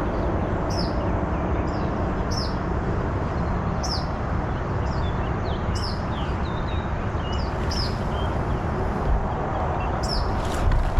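A bird calling over and over: short, high chirps that sweep downward, about one every second and a half. Under it is a steady rushing background noise.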